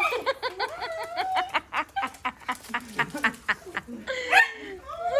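A dog whining and yipping excitedly: a quick run of short yips, then longer whines that rise and fall near the end.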